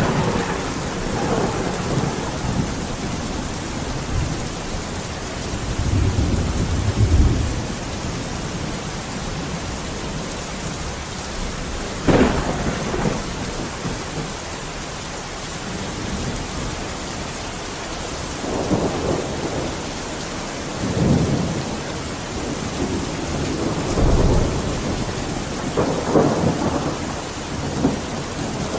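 Steady heavy rain with thunder rolling several times. One sharper, louder clap comes about twelve seconds in, and the other rumbles swell and fade every few seconds.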